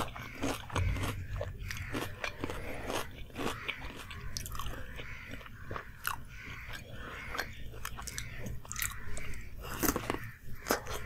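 Close-miked chewing of a deep-fried samosa (singhara): crisp pastry crunching with mouth sounds, and a louder crunching bite near the end.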